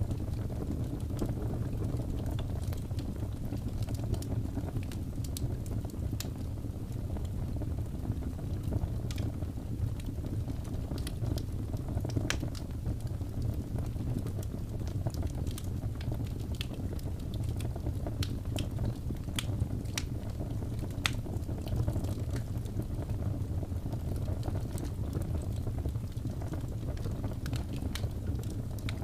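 Wood fire crackling in a fireplace: a steady low rumble of the burning logs with frequent sharp pops and snaps scattered throughout.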